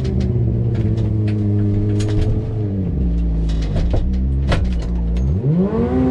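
A kartcross's 600cc motorcycle engine idling at raised revs, dropping to a low idle a little under three seconds in, then revved up near the end and held there. Scattered sharp clicks and knocks of the car being handled sound over the engine.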